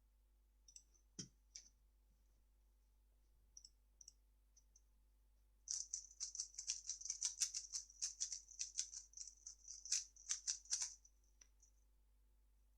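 3x3 speedcube being turned fast: a dense run of sharp plastic clicks lasting about five seconds, after a few scattered single clicks near the start.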